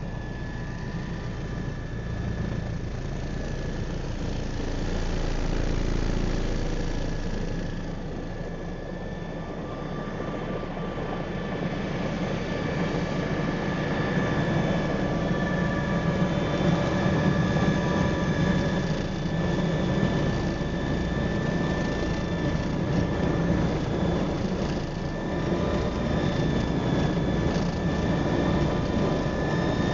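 MBB Bo 105 helicopter running, its twin turboshaft engines giving a steady high whine over the rotor's rumble. It grows louder through the first half, then holds steady.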